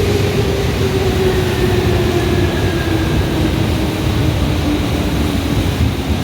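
JR electric train running with a steady heavy rumble, and a whine that slowly falls in pitch across the whole stretch.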